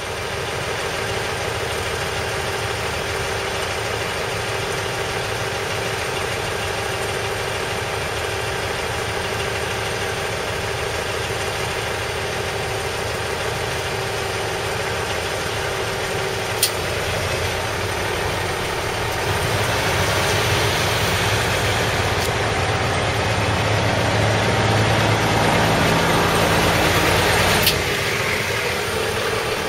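KiHa 30 diesel railcar's DMH17H diesel engine idling steadily while the train stands in the station. From about two-thirds of the way in, a louder rushing sound joins and stops abruptly with a sharp click near the end; another single click comes a little earlier.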